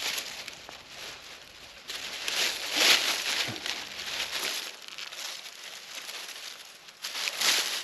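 Dry reeds rustling and crackling as they are pushed through or handled, with louder crunchy bursts about two to three seconds in and again near the end.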